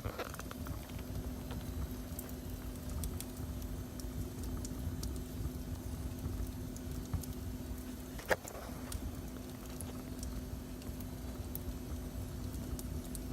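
Wood fire crackling, with scattered small snaps and a sharper pop about eight seconds in, over a steady low rumble and a faint steady hum.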